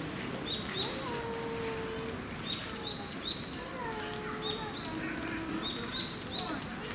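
Small birds chirping in short, high, repeated notes, often in quick pairs, over a steady background of distant voices.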